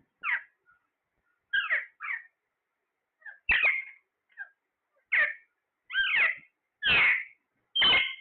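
A parrot calling in a run of about nine short, sharp calls, getting louder toward the end.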